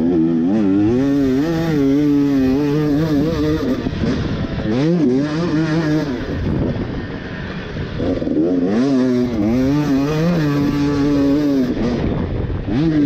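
Two-stroke motocross bike engine being ridden hard. The revs climb and hold, ease off about four seconds in, pick up again, and fall away again near the end.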